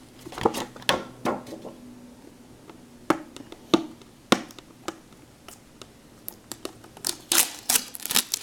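Hands opening and handling a sealed trading card box: scattered sharp clicks and taps of cardboard and plastic wrapper, with a quick burst of crinkling and rustling near the end.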